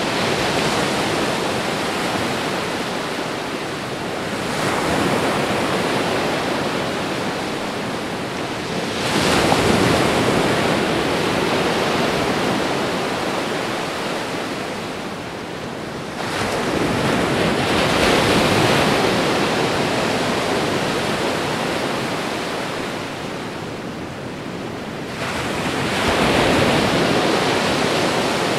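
Heavy rain falling as a steady roar that swells and eases every several seconds, with louder surges about a third of the way in, just past halfway and near the end.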